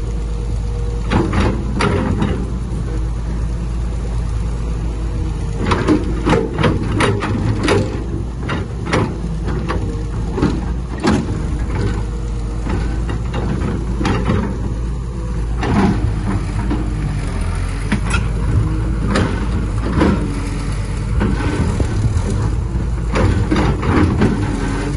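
Heavy diesel earthmoving machinery running steadily, with many irregular sharp metallic clanks and knocks over the engine.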